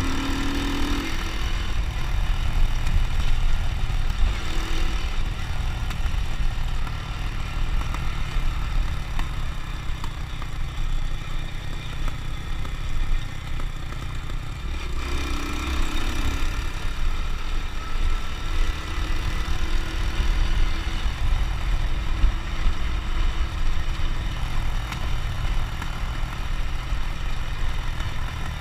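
Honda Win motorcycle's small single-cylinder engine running steadily under way.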